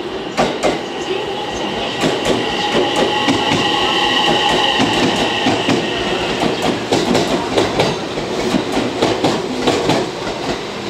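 JR West 227 series electric train running past along the platform, its wheels clicking over the rail joints. A steady high whine runs for a few seconds in the middle.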